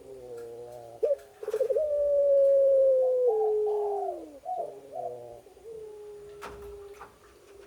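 A female animal's calls to a mate: long, melodious drawn-out notes, several in a row, that hold, waver and slide down in pitch, dying away near the end. There is a sharp click about two-thirds of the way through.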